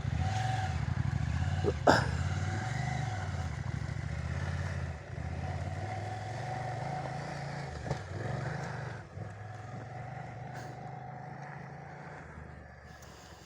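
Trail motorcycle engine running, its revs rising and falling, growing fainter toward the end. A sharp knock about two seconds in, and a lighter one near eight seconds.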